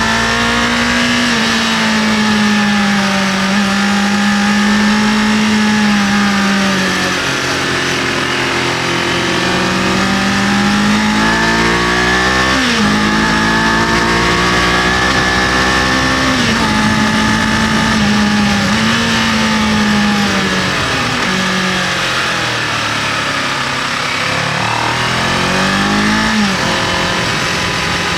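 Kawasaki KLE500 parallel-twin motorcycle engine running under way, its pitch rising and falling as the throttle is opened and eased, with wind and road hiss. The engine pitch jumps sharply upward twice, about halfway through and near the end.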